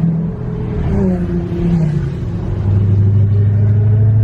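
Car engine and road rumble heard from inside a moving car. The engine note sags in pitch, then about two-thirds of the way through it settles into a lower, steady and slightly louder drone.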